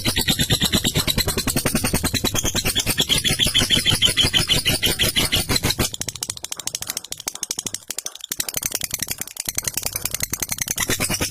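Lovebird's long ngekek: an unbroken chattering trill of fast, evenly repeated high notes. It is a little quieter from about halfway.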